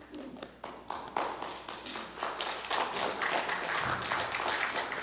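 Congregation applauding: scattered claps at first that thicken into steady applause after about a second.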